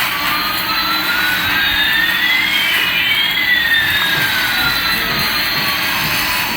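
Electronic jet-engine sound from a toy Airbus A380: a steady rushing noise with two whines, one rising and one falling in pitch, that cross about halfway through.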